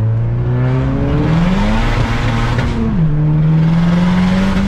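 600-plus-horsepower Mazdaspeed3's turbocharged 2.3-litre four-cylinder accelerating hard, heard from inside the cabin. The engine note climbs, drops at an upshift about three seconds in, then climbs again.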